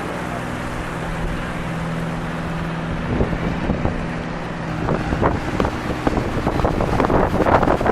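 A steady low motor hum under wind buffeting the microphone. The buffeting comes in gusts from about three seconds in and grows stronger and denser in the second half.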